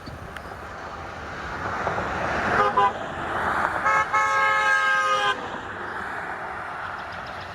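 A vehicle horn sounds, a short double toot about two and a half seconds in, then a longer blast of about a second and a half, over a rushing noise that swells and fades.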